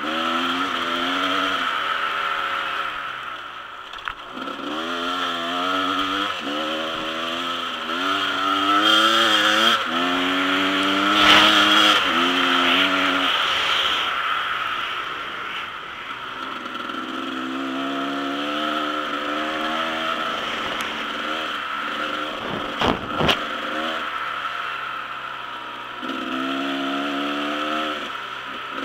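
Dirt bike engine ridden on a trail, its pitch climbing under throttle and dropping off again many times as the rider accelerates and shifts or backs off. There are a couple of sharp knocks about 23 seconds in.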